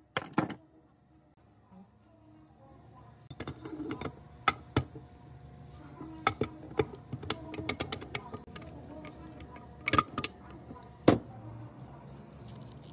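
Metal parts and tools clinking and knocking in irregular strikes, the sharpest two near the end, over a steady machine hum that sets in about two seconds in.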